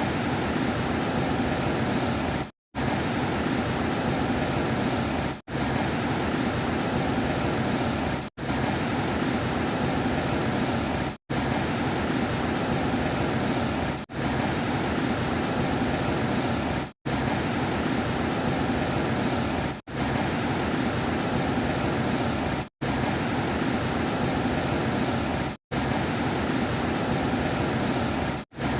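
Heavy downpour with strong wind: a loud, steady, even rush of rain and gusts. The sound drops out completely for a split second about every three seconds.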